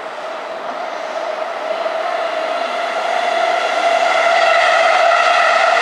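An electric commuter train approaching the platform, its steady multi-pitched whine growing steadily louder.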